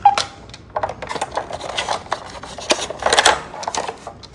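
Small plastic toys clattering as they are handled: a run of quick irregular clicks and knocks, with a short louder patch about three seconds in.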